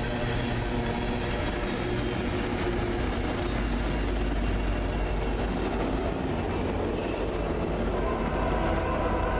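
Freight train rolling by close at hand: a steady, loud rumble of the train and its wheels on the rails.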